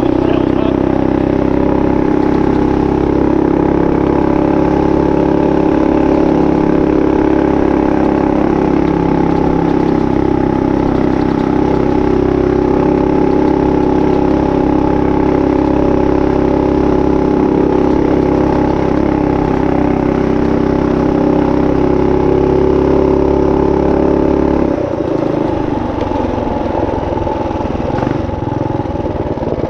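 Minibike's Tillotson 212 single-cylinder engine running at a steady speed. About 25 seconds in it drops off to a lower, less even speed.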